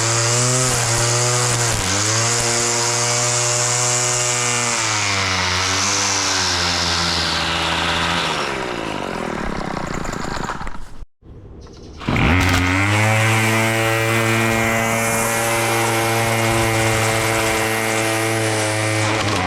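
Small petrol engine of a grass-cutting machine running steadily, its pitch dipping now and then. About eight seconds in the engine slows and its pitch falls away, there is a brief gap near silence, then it revs back up just after twelve seconds and runs steadily again.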